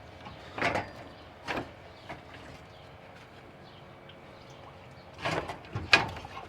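Short knocks and scrapes of parts being handled, the first three about a second apart. Near the end comes a louder cluster of knocks and rattles as the parts are worked loose.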